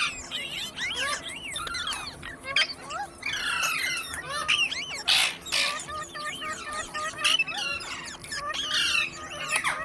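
Green parrots chirping, whistling and squawking in quick, overlapping calls, with a harsh screech about five seconds in.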